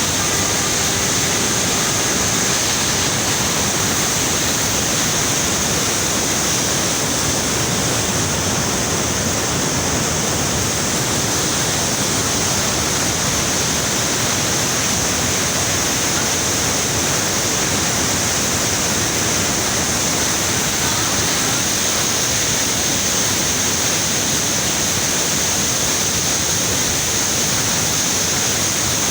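River water rushing through a barrage: a loud, steady rush that holds level without a break.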